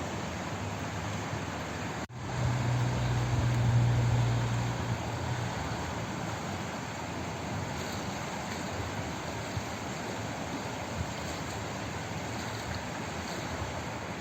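Steady rushing hiss of flowing water, with a brief dropout about two seconds in and a low rumble under it until about five seconds in.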